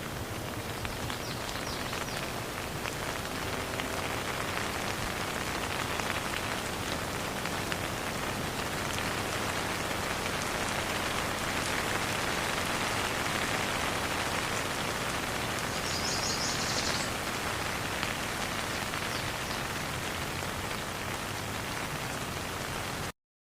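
Steady rain falling and pattering on surfaces, an even hiss of many drops, with a brief burst of rapid high ticks about sixteen seconds in. The sound cuts off abruptly to silence just before the end.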